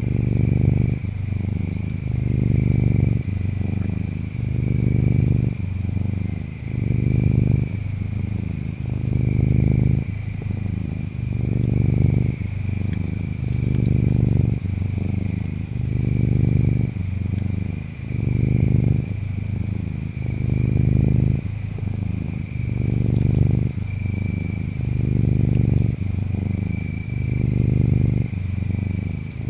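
A cat purring close up, its rumble swelling and easing about every two seconds with each breath. Behind it, insects chirp: a steady high trill with intermittent very high chirps.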